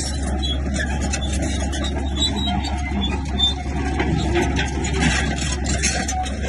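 Diesel engine of a Komatsu bulldozer running steadily under load, with scattered short knocks and clatter over it.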